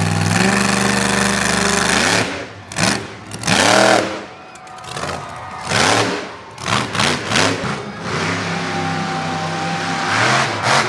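Monster truck engine held at steady high revs, then revved up and down in a quick series of blips, then held steady again.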